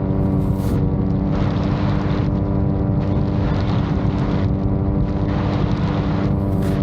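VTOL drone's motors and propellers running at a steady pitch, with gusty wind buffeting the microphone.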